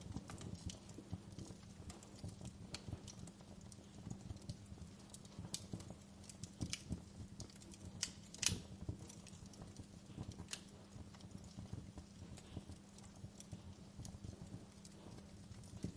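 Wood fire in a fireplace crackling: irregular pops and snaps over a steady low rumble, with one louder pop about halfway through.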